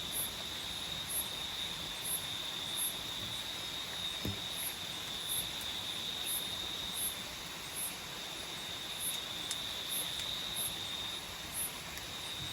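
Tropical forest night insects calling: a continuous high-pitched trill, with a second, even higher chirp repeating a little faster than once a second.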